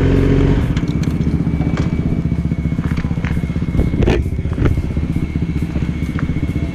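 Motorcycle engine idling with a fast, even low pulse. It drops a little in level about half a second in. A few sharp clicks sound over it, the loudest about four seconds in.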